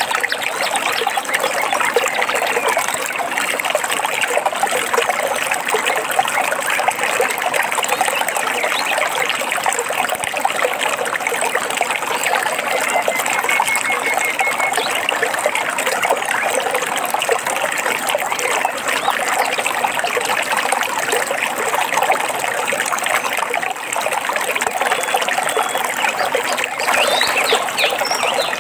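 Water trickling and babbling steadily, as in a small forest stream. A faint short bird trill comes about halfway through, and a few quick bird chirps come near the end.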